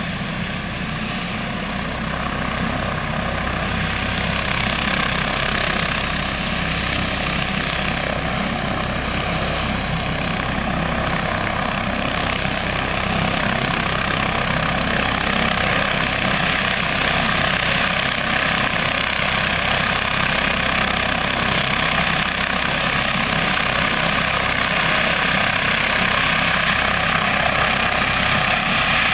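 Airbus H145 D3 rescue helicopter's twin turbine engines and five-bladed rotor running steadily, slowly growing louder.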